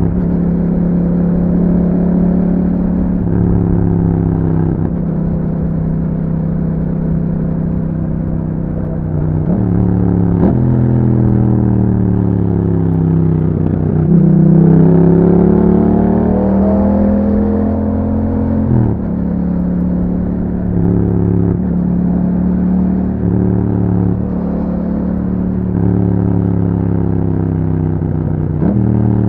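2021 Yamaha MT-07's 689 cc parallel-twin engine through an aftermarket Akrapovic exhaust with dB killer, ridden on the road: engine note rising and dropping with gear changes. Revs fall off for a few seconds around the middle, then climb again to the loudest part of the run.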